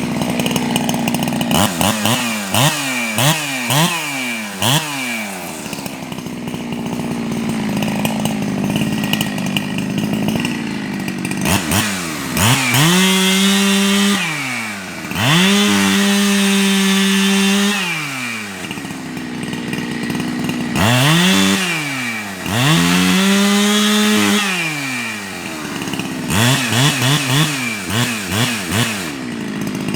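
Ported Jonsered 2165 two-stroke chainsaw at work. Its throttle is blipped in quick rev-ups between stretches at idle, and three times it is revved to full throttle and held there for a few seconds, as when bucking wood.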